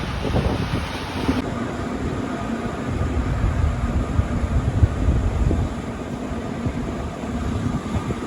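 Passenger train running along the track, a steady rumble of wheels on rail with wind noise that drops off suddenly about a second and a half in.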